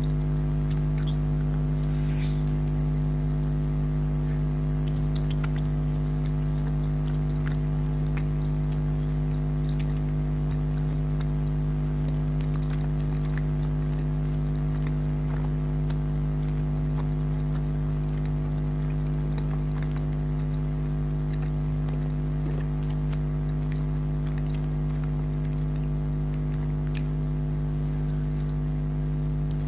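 A steady low hum made of several fixed tones runs throughout, with faint, scattered clicks and smacks of jelly being chewed over it.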